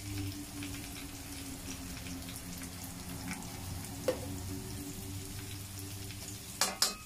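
Onions and green chillies frying gently in oil in a pan, a faint steady sizzle over a low hum. A small tap comes about four seconds in, and two sharp knocks near the end as ginger-garlic paste is spooned into the pan.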